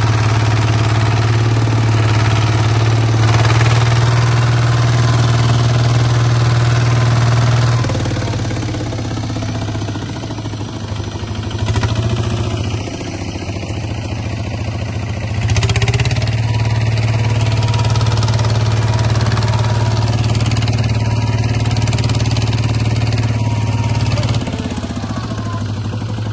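Small Kubota bulldozer's engine running loudly and steadily. Its note shifts and eases about a third of the way through, picks up strongly again around the middle, then eases once more near the end, as the machine's load changes.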